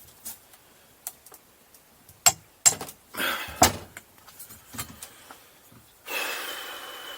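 Metal tools clanking and knocking against engine parts in a few sharp hits while a stuck part is being worked loose. About six seconds in comes a hiss with a faint thin whistle that slowly fades.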